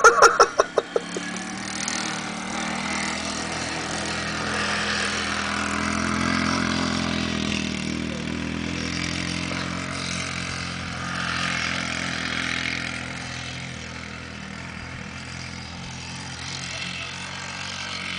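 Quad bike engine running, heard from across a field, getting louder and quieter as the bike moves around. It opens with a quick run of about ten short loud pulses in the first second.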